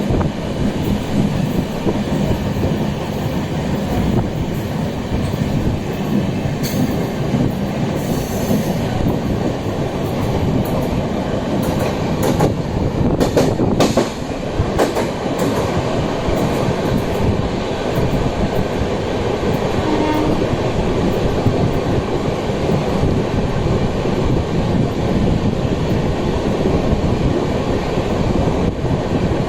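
Indian Railways train running on the track: a continuous rumble, with a few sharp clicks about twelve to fourteen seconds in.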